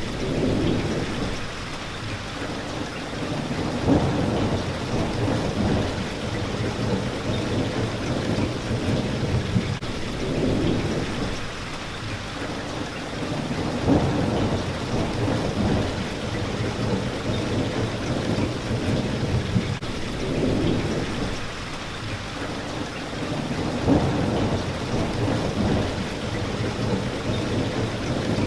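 Steady heavy rain pattering against a window, with low rolling thunder swelling up every few seconds and a sharper louder hit three times, about ten seconds apart.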